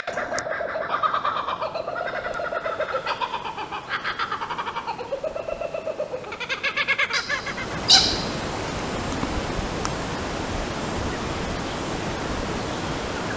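A bird calling in a long run of rapid, pulsing chatter that rises and falls in pitch. About eight seconds in it stops with a sharp click, and a steady hiss follows.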